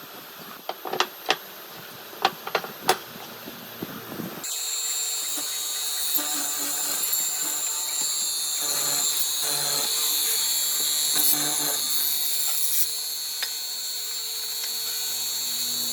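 A few sharp knocks, wood or tool handling, then about four seconds in an electric power tool starts and runs steadily with a high whine.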